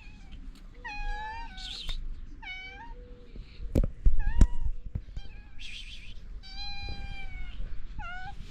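Stray cats meowing repeatedly, about six meows with one longer, drawn-out meow near the end. A few loud thumps come about four seconds in.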